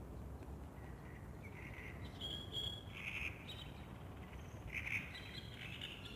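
Wild birds calling at dawn: two clusters of short chirps and trills, about two seconds in and again near the end, over a steady low background rumble.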